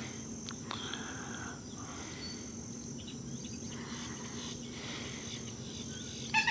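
Steady high-pitched drone of insects calling, unbroken throughout.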